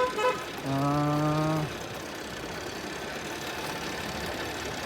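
Motorcycle engine running steadily, with one held, even tone of about a second near the start.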